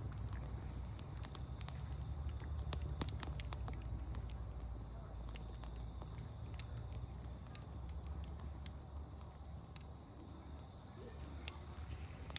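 Wood campfire crackling, logs popping in sharp snaps, with a quick cluster about three seconds in and single pops every second or two after. A steady pulsing insect trill runs underneath.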